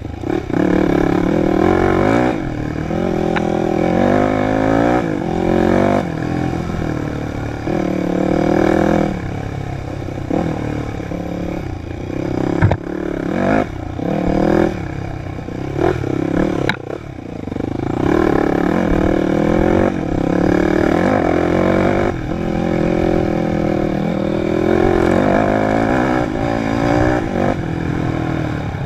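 Dirt bike engine working hard off-road, its pitch climbing and dropping again every second or two as the throttle is opened and shut and gears change. A couple of sharp knocks from the bike hitting bumps come around the middle.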